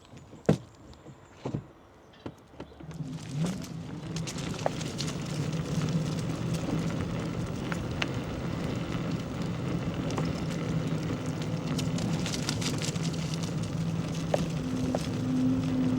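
An engine running steadily, starting about three seconds in after a few sharp clicks, with a crackling hiss over it.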